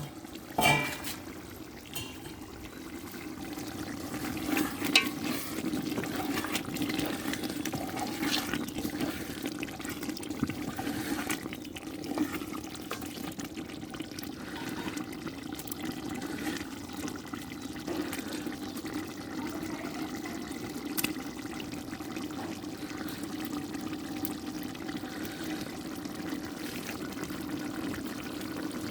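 Chicken curry bubbling in the pot as it simmers, a steady watery sound with a few light clicks in the first half.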